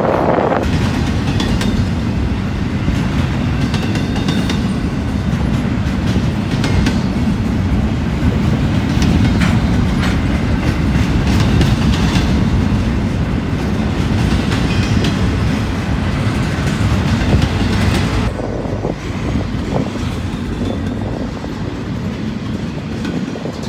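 Freight train cars rolling past, wheels clicking and clattering over the rail joints with a steady rumble; the sound drops off noticeably about 18 seconds in.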